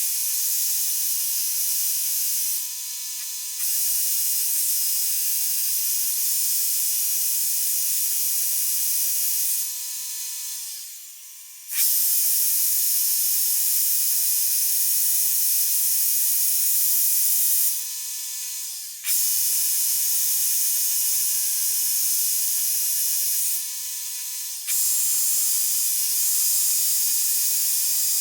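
Electric power tool motor running at high speed with a high whine, dropping off four times as the motor slows and its pitch slides down, then speeding straight back up.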